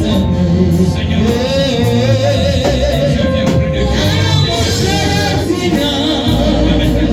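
Gospel worship music: wavering sung voices over a band with a steady bass line.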